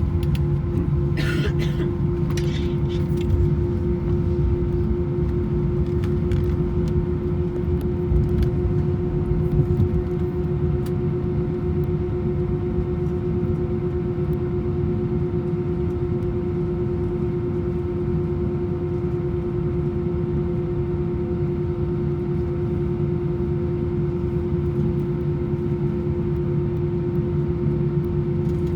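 Airbus A321-200 cabin noise: the jet engines drone steadily, with a constant hum tone over a low rumble. A few brief rattles come in the first few seconds.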